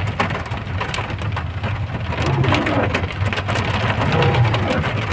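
Heavy rain mixed with hail: a dense hiss of rain with many sharp ticks of hailstones striking surfaces, over a steady low rumble.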